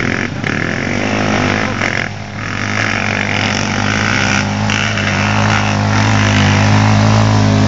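Off-road motorcycle engine running steadily, with a brief dip in level about two seconds in.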